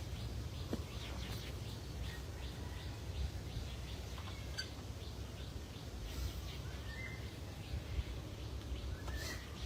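Steady low rumble with scattered faint ticks, and a bird chirping briefly twice, late on.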